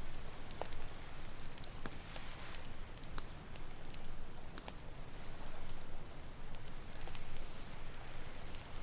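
Campfire crackling with irregular sharp pops and snaps over a steady wash of ocean waves.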